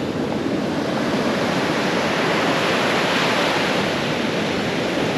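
Ocean surf washing onto a beach: a continuous rush of breaking waves that swells a little in the middle.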